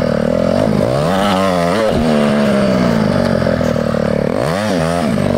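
Mini bike's small engine running under way, its pitch rising and falling as the throttle is worked, with quick swings in engine speed about a second and a half in and again near the end.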